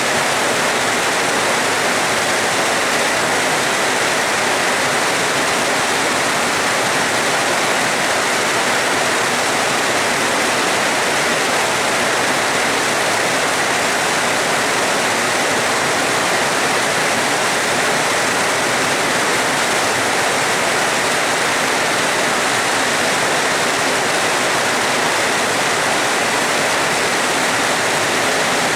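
Heavy rain falling steadily, a constant even hiss of water with no thunder.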